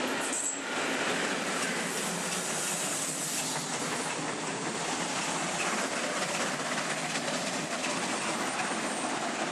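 A train passing close by: a loud, steady rush of wheels on rails with clickety-clack over the rail joints.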